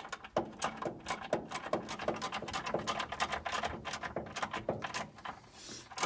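Ratchet wrench clicking in quick, uneven runs as a bolt is run in by hand, with a brief hiss near the end.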